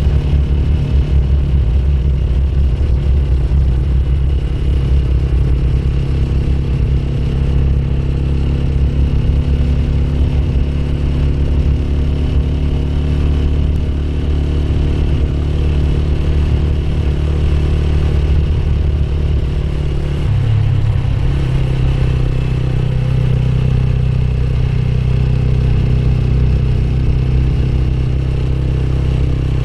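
Motorcycle engine running steadily while riding. About two-thirds of the way through, the engine note shifts to a new steady pitch.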